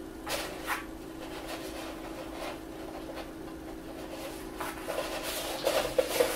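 Paper being handled and rubbed as a cut paper piece is glued down, with soft scrapes and taps that grow busier and louder over the last two seconds. A faint steady hum sits underneath.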